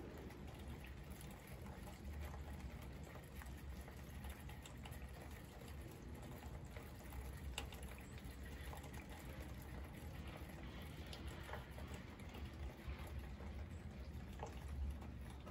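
Steady light rain pattering, with scattered single drops ticking and a low rumble underneath.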